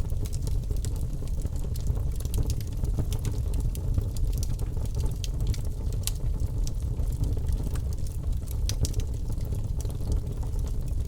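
Birch-wood fire burning in a fireplace: a steady low rumble of flames with frequent sharp crackles and pops from the logs.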